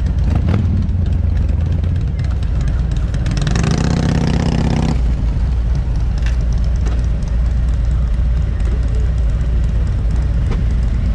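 Motorcycle engine running under way, with a steady low rumble and wind noise on the microphone; a louder pitched engine note comes in for about a second and a half, around three and a half seconds in.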